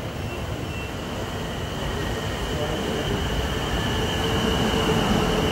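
Class 450 Desiro electric multiple unit rolling along the platform, growing steadily louder as it comes in, with a steady high whine and a lower hum joining about three and a half seconds in.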